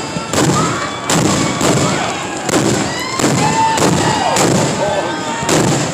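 Aerial fireworks bursting in rapid succession, about six loud booms in under six seconds, with short sliding whistle-like tones between them.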